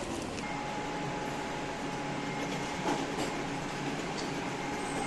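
Steady running noise inside a moving train carriage, with a faint constant hum tone over it.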